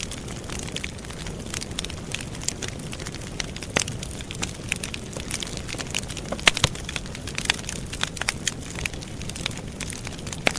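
Wood campfire burning, crackling with frequent sharp pops over the steady low rumble of the flames. The loudest pop comes about six and a half seconds in.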